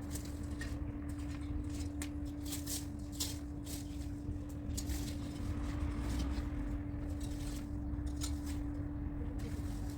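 Irregular scraping and rustling strokes of garden debris being moved, bunched in the middle of the stretch and again near the end, over a steady low hum and rumble.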